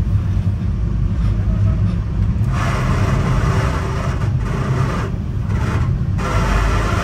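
Metra commuter train running along the track, heard from inside the car: a steady low rumble, joined about two and a half seconds in by a hissing rush of wheel-on-rail noise that breaks off briefly a few times.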